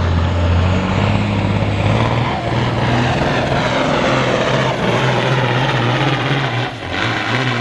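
Semi truck's diesel engine running hard under heavy load while pulling a weight sled, its pitch stepping a couple of times in the first two seconds and the loudness dipping near the end.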